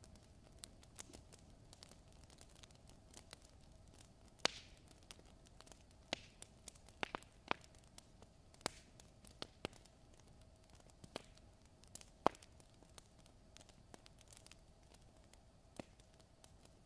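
Wood fire crackling: irregular sharp pops and snaps at no steady rhythm, the loudest about four and twelve seconds in, over a faint steady hiss and hum.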